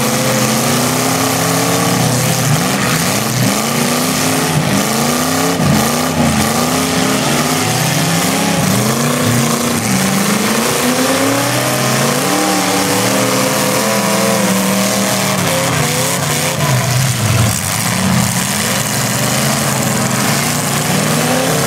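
Several demolition derby cars' engines revving hard, their pitch climbing and falling over and over as they accelerate and back off in the mud, with a few knocks of cars hitting each other.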